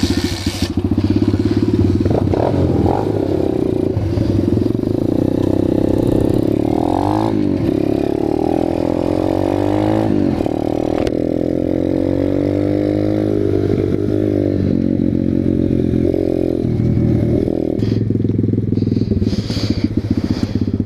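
Small single-cylinder pit bike engine running hard while riding, its pitch climbing and dropping again and again as it accelerates and shifts gears.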